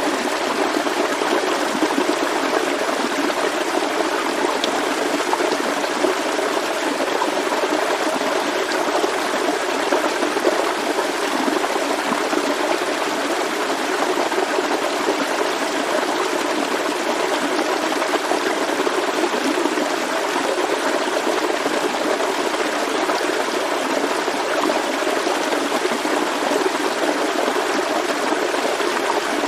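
Forest stream flowing, a steady unbroken rush of water.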